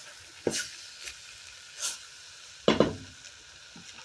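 Chicken cooking in a pot on a gas burner with a faint steady sizzle. A few sudden knocks against the pot can be heard, the loudest just under three seconds in.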